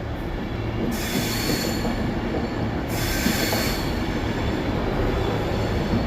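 Avanti West Coast Class 390 Pendolino electric train, 390130, moving along the platform with a steady low hum and rumble. Two brief high-pitched hissing squeals come about a second and about three seconds in.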